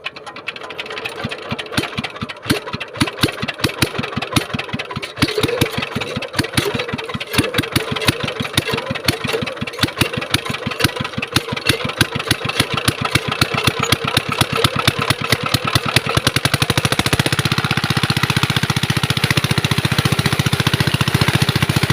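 Diesel water-pump engine being started: separate firing strokes that come faster and faster, settling into a steady fast run about sixteen seconds in.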